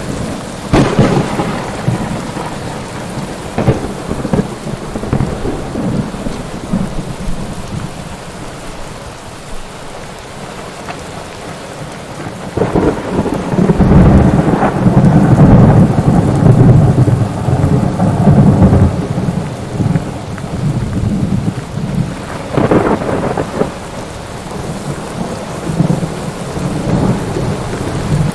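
Thunderstorm: steady rain with thunder. A sharp crack comes about a second in, a long heavy rumble rolls for several seconds from about halfway, and another crack comes near the end.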